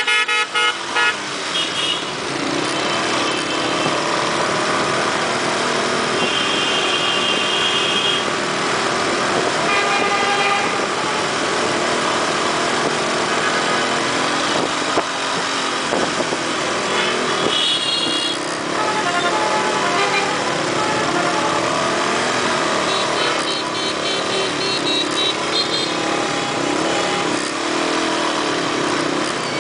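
Dense motorbike traffic: small motorcycle engines running with wavering, shifting pitch, and horns honking again and again, some short beeps and some held for over a second.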